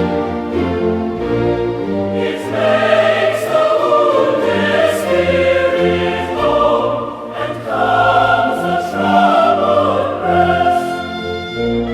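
A choir singing a hymn in long held notes over instrumental accompaniment, the voices growing fuller about two and a half seconds in.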